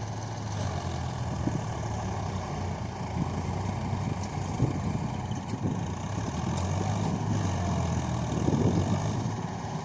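Swaraj tractor's diesel engine running steadily, working to pull the tractor free of soft mud, and getting louder about eight to nine seconds in.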